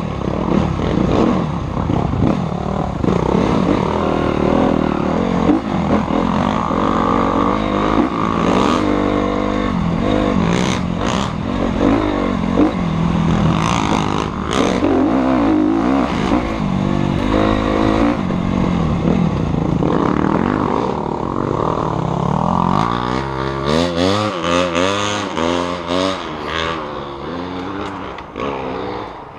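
Motocross dirt bike engines running and revving, the pitch rising and falling over and over. In the last few seconds one engine note wavers quickly up and down and the sound eases off a little.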